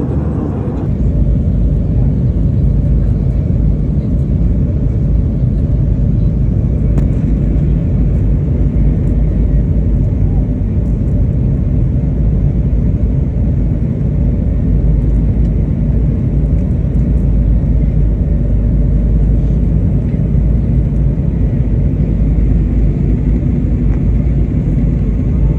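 Steady loud rumble of a jet airliner heard from inside the passenger cabin, engine and airflow noise, which grows heavier about a second in and then holds level.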